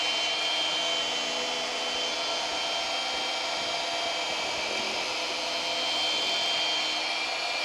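Small electric power tool running steadily: a constant motor whine over a rushing hiss, not changing in speed.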